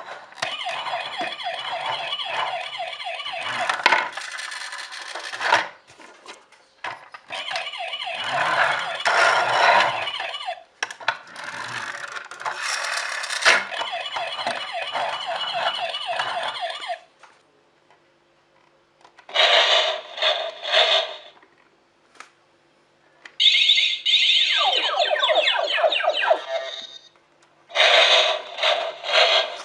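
Electronic toy sounds and jingles from a small built-in speaker: a long busy stretch for the first half, then a pause and three shorter bursts.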